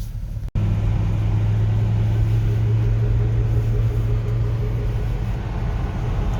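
A motor vehicle's engine running steadily as a low, even hum, starting abruptly after a cut about half a second in.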